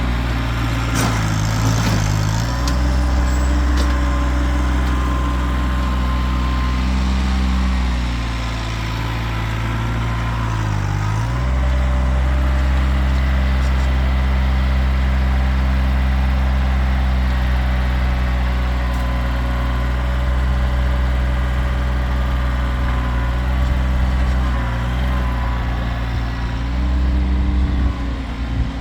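Kioti tractor's diesel engine running steadily, its speed sagging briefly a few times as it comes under digging load.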